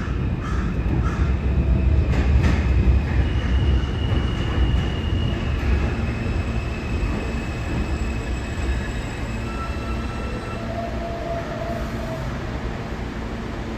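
R160 subway train running through the station: a low rumble with a few wheel clicks, loudest in the first few seconds and then slowly fading, with steady high motor whine tones.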